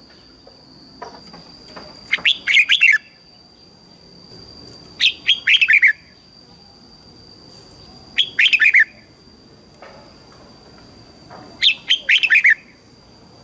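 Red-whiskered bulbul singing: four short, loud song phrases about three seconds apart, each a quick run of notes falling in pitch. A faint steady high whine runs underneath.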